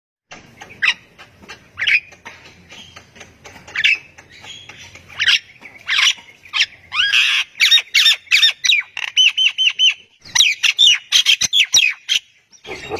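A caged songbird singing: sharp chirps and whistled, sliding notes that come faster and denser in the second half, with a quick run of about five repeated notes.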